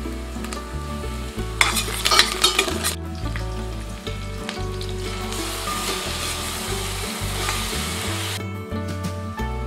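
Oil sizzling in a pressure cooker as green chillies and ground paste are added to frying onions and stirred with a ladle. The sizzle flares loudly for about a second, about two seconds in.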